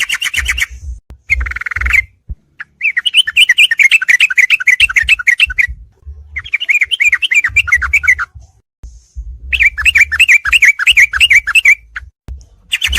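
Yellow-vented bulbul (trucuk) song played from a bird-training recording: phrases of quick, repeated chattering notes, a few short ones and then longer runs of two to three seconds, with short pauses between them. A low rumble sits underneath.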